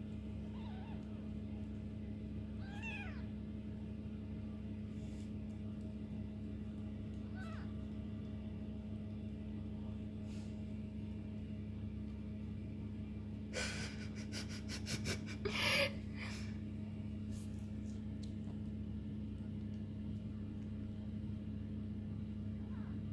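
Four-week-old kittens giving a few thin, high mews, one of them wavering up and down. About fourteen seconds in comes a short burst of rustling and sharp clicks, the loudest sound here, over a steady low hum.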